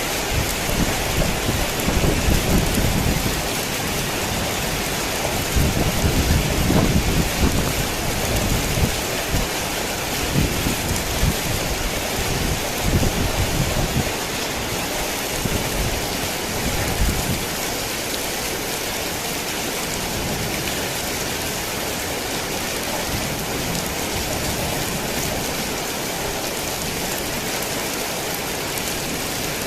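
Heavy rain falling steadily, with low rolling thunder rumbling in surges through the first half that dies away a little after halfway.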